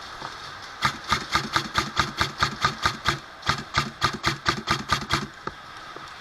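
Airsoft gun firing a rapid string of shots, about five a second, with a short break about halfway through.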